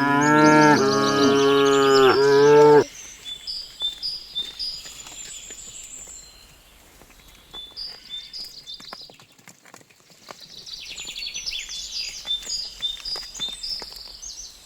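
A cow mooing: one loud, drawn-out moo with a few breaks in it, ending about three seconds in. Afterwards birds chirp, with scattered faint clicks.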